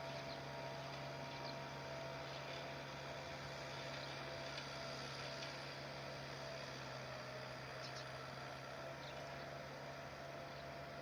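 Steady low hum over an even background hiss, with a few faint, short high ticks scattered through it.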